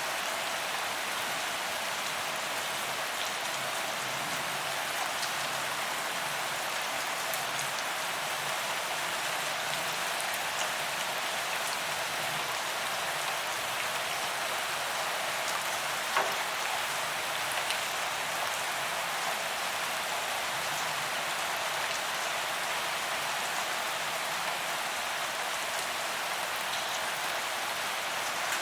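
Steady heavy rain falling on a paved promenade: an even hiss of drops hitting the ground, with one sharper tap about sixteen seconds in.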